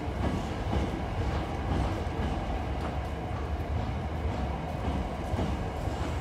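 Hankyu electric train rolling along the platform as it arrives: a steady low rumble of wheels and running gear, with a few faint clicks.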